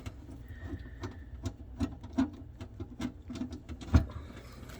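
Irregular small metallic clicks and scrapes of a screwdriver turning a garbage disposal's mounting screws, with one louder knock about four seconds in.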